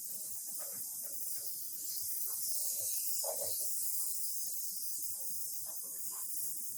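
A steady high hiss.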